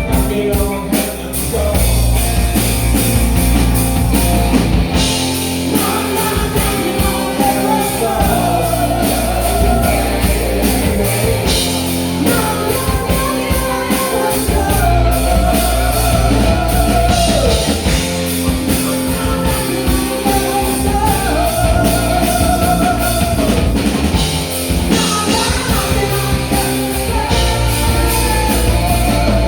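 Rock band music with drum kit, guitar and singing, a wavering lead melody line running over a steady bass and drum beat.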